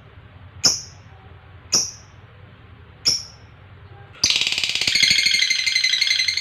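Lovebird giving three single sharp chirps about a second apart, then from about four seconds in breaking into a long, rapid, shrill chattering trill, the 'ngekek' song.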